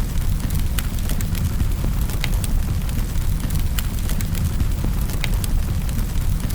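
Wood fire crackling in a fireplace: irregular sharp pops and snaps, a couple a second, over a steady low rumble of the flames.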